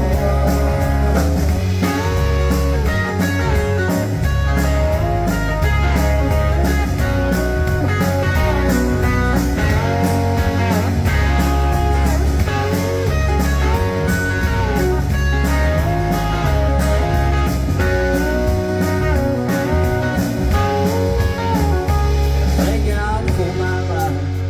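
Country band playing an instrumental break: a lead guitar solo with bent, gliding notes over steady drums and a heavy bass line.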